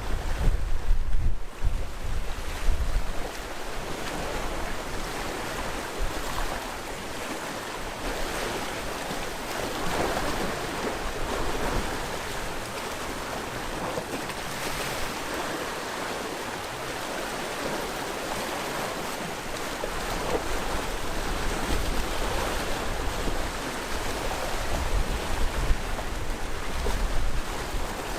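Sea waves washing in and breaking on the shore, swelling and easing, with wind buffeting the microphone as a low rumble at the start and again over the last several seconds.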